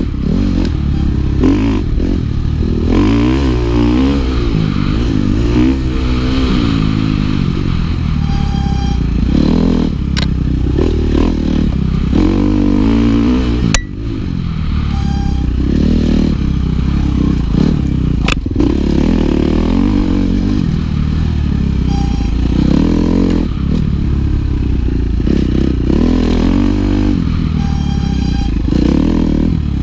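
Dirt bike engine being ridden hard, revving up and dropping back over and over as the throttle is worked, its pitch climbing and falling every second or two. The sound dips briefly about 14 seconds in, and there are a few sharp clicks.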